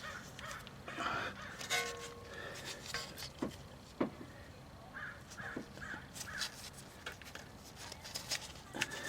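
A bird calling four times in quick succession about five seconds in, with a few sharp clicks and knocks before it.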